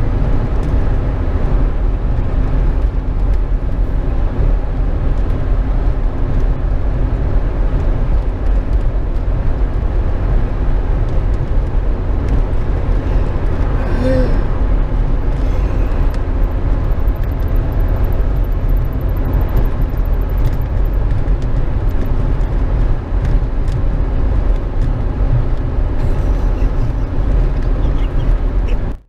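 Steady low rumble of vehicles travelling at highway speed, engine and road noise without a break, with a brief higher tone about halfway through.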